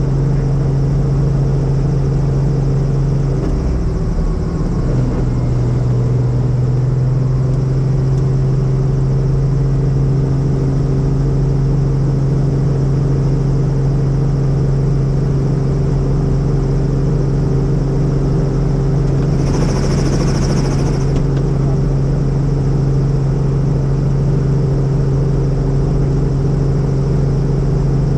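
Helicopter in flight heard from inside the cabin: a loud, steady drone of turbine and rotor with a strong low hum. The pitch sags briefly about four seconds in, and a short hiss comes about twenty seconds in.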